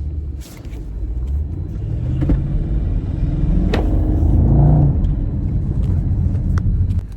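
Muffler-deleted car engine and exhaust accelerating: the note rises in pitch and grows louder for about four and a half seconds, then eases off. A sharp click comes partway through.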